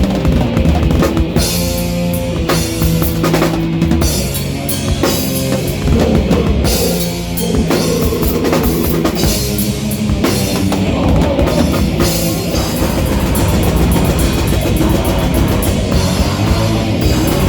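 A rock band playing loud through the PA: drum kit with bass drum and crashing cymbals under distorted guitars and bass, no vocals.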